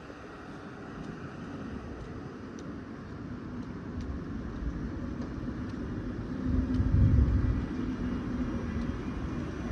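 Train moving through a station: a low rumble that builds and is loudest about seven seconds in, with a faint steady hum and a few light ticks.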